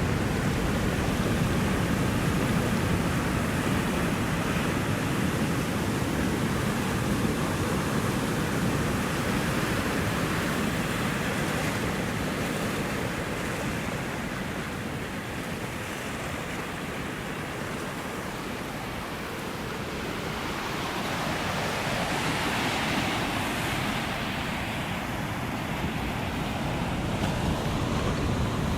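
Ocean surf: waves breaking and washing in a continuous rush that swells and eases slowly, dipping a little about two-thirds of the way through and building again after.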